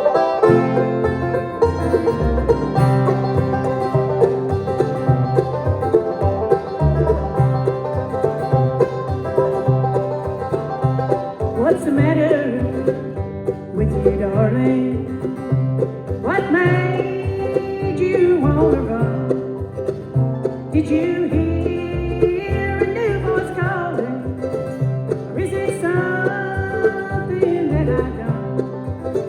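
Bluegrass band playing the instrumental intro to a song: banjo and guitar over a steady bass beat. From about twelve seconds in, a lead line with gliding, bending notes comes to the front.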